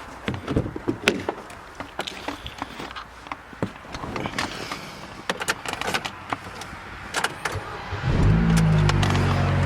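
Scattered clicks and knocks, then a car engine starts about eight seconds in and runs steadily.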